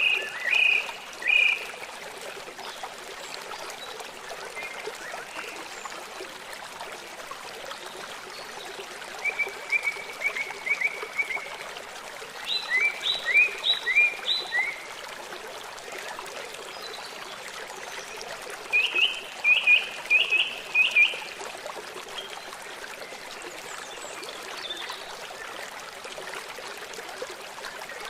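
Songbirds singing short phrases of quick repeated chirps, several bursts a few seconds apart, over the steady rush of flowing stream water.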